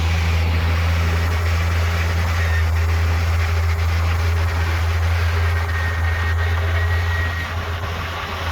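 Heavy diesel construction machinery running with a steady, loud low drone, a faint high whine drifting over it; the engine eases slightly near the end.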